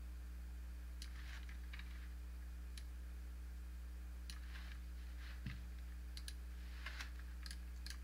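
Computer mouse clicking irregularly, about a dozen clicks with a few quick doubles, over a steady low electrical hum.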